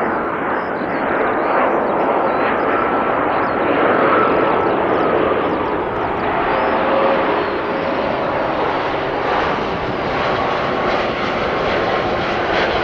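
Airbus A330 jet engines: a loud, steady rush with faint steady whining tones running through it.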